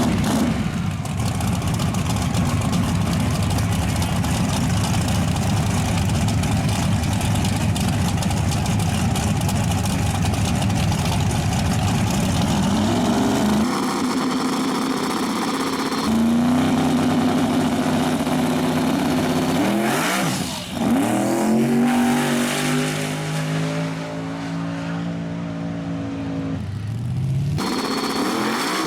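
Drag race car engines: a heavy low rumble at first, then a hard launch about 13 seconds in with engine pitch climbing through gear changes as the car accelerates down the track. It grows quieter near the end, then another engine cuts in.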